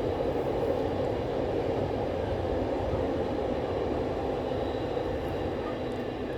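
Diesel locomotive-hauled train passing along the line, a steady rumble that slowly fades.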